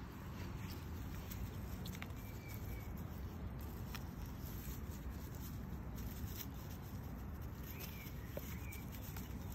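Steady low background rumble, with a few faint scattered clicks and two faint short high chirps, one about two seconds in and one near the end.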